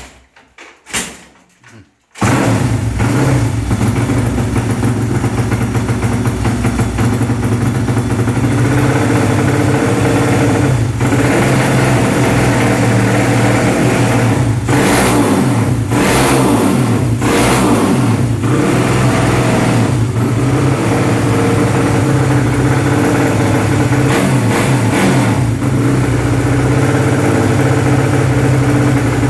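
A tuned 130cc motorcycle engine with standard ignition catches about two seconds in, after a few short knocks, and then runs loud and steady at a fast idle. Its pitch dips and surges several times in the second half.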